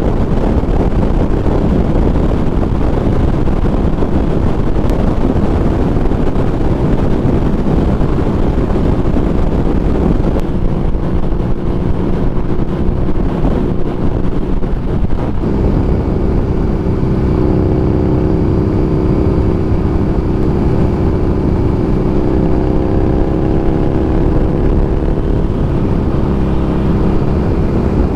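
Harley-Davidson Street Rod 750's V-twin engine running steadily while riding, under a heavy rush of wind noise. About halfway through, a steady engine hum stands out more clearly, with small shifts in pitch.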